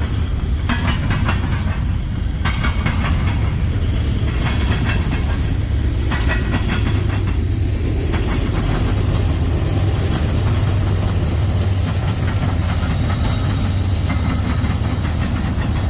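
Freight train rolling past close by, with steady wheel rumble and clicking over the rail joints. A pair of mid-train diesel distributed-power locomotives passes, adding a steady low engine hum that is strongest in the middle.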